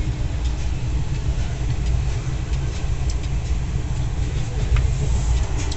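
Indian Railways passenger train running: a steady low rumble with faint light clicks now and then.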